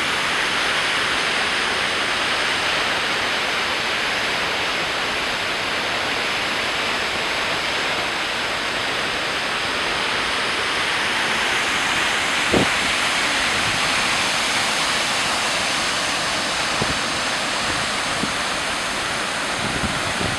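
Skógafoss waterfall: a steady, loud rush of falling water. A few brief low thumps break through, the strongest about twelve seconds in.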